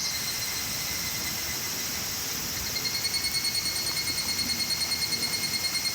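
Insects chirring in a steady high-pitched drone. About halfway through, a fast, evenly pulsing trill joins it.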